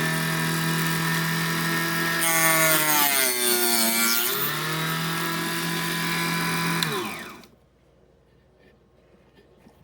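A miniature chop saw's small electric motor runs with a steady whine. About two seconds in, the blade cuts through a thin wood shim: the pitch sags under the load with a rasp of sawing, then climbs back to full speed. Near seven seconds the motor is switched off and winds down quickly, followed by a few faint clicks.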